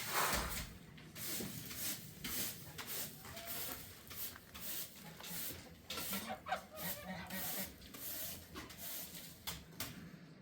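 Farm poultry making short calls, with a cluster of calls about six to seven seconds in, amid repeated rustling and handling noises.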